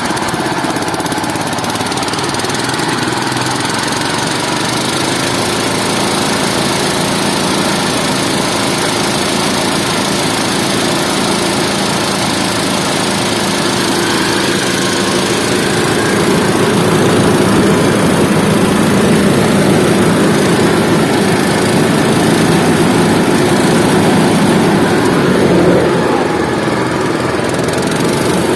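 Small engine of a rice harvest machine running steadily under load, getting a little louder past the halfway point.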